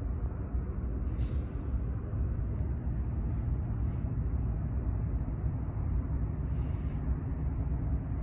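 Steady low rumble of an approaching freight train led by a Norfolk Southern AC44C6M diesel locomotive, with a faint engine hum under it. A short hiss sounds about a second in and again near the end.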